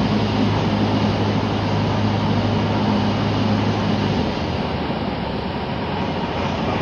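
Cessna 172 engine and propeller noise inside the cabin: a loud steady drone that drops to a lower, slightly quieter note about four seconds in, as power is reduced.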